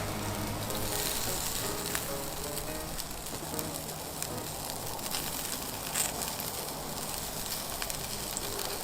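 Yakitori skewers sizzling over a charcoal fire, with a few sharp crackles.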